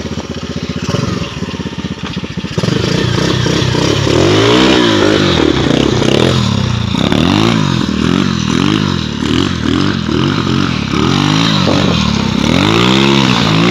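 SSR 125cc pit bike's single-cylinder four-stroke engine running steadily, then about two and a half seconds in it gets louder and revs up and down over and over as the bike is ridden.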